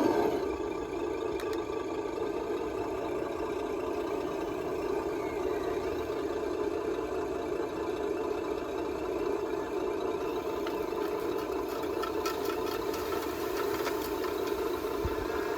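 Radio-controlled dump truck's electronic sound module playing a steady diesel engine sound. A cluster of light clicks and rattles comes near the end.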